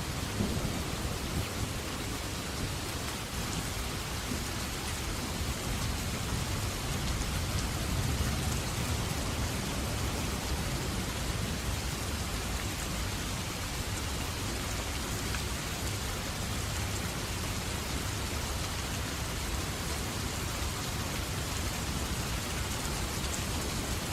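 Steady rain falling, with low rumbles of distant thunder underneath that swell most strongly about eight seconds in.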